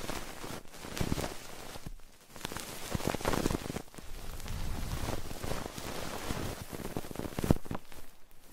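Close-miked ASMR trigger sounds at a binaural dummy-head microphone: continuous crackling and rustling with scattered sharp clicks, with no voice.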